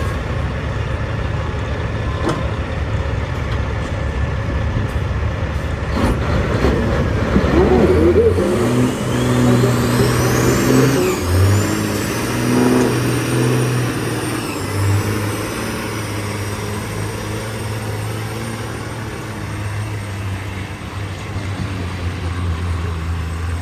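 Straight-piped semi truck diesel engine pulling hard under load, getting louder several seconds in, its note stepping up and down in pitch several times. A high whistle rises partway through.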